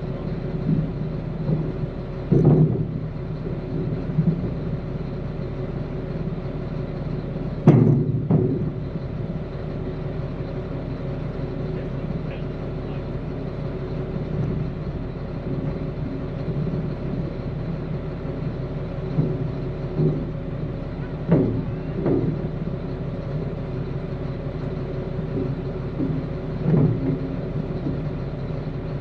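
A vehicle engine idling steadily, with a few short knocks, the loudest about eight seconds in.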